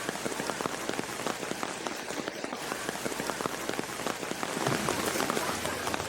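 Heavy rain pouring down: a dense, steady hiss made of countless drops striking surfaces.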